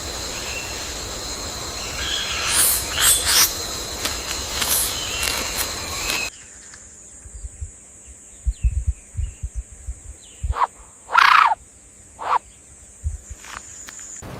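Outdoor animal sounds: a steady high insect trill, with a few short calls. About six seconds in the scene cuts to a quieter one with a fainter high trill and several brief sharp calls.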